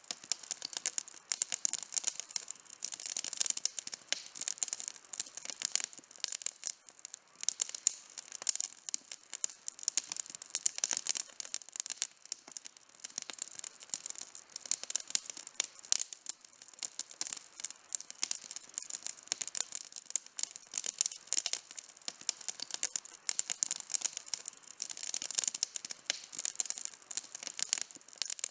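Campfire burning, with dense irregular crackling and snapping of burning wood over a soft hiss.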